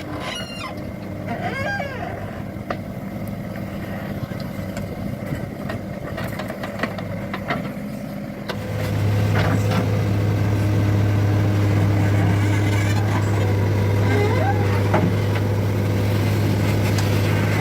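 Diesel engines of a JCB backhoe loader and tractors running steadily. About eight and a half seconds in, a much louder, deeper steady engine note sets in as one machine runs up close.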